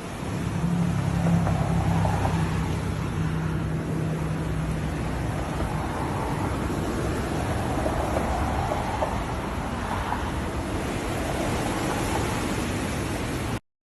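Blizzard wind blowing hard, a steady rushing noise with wind buffeting the microphone, and a low steady hum under it for the first few seconds. The sound cuts off suddenly near the end.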